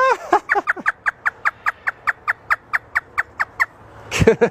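African grey parrot imitating a hysterical human laugh. It makes a fast, even string of short pitched "ha" notes, about four or five a second, for roughly three and a half seconds. A louder burst of laughter follows near the end.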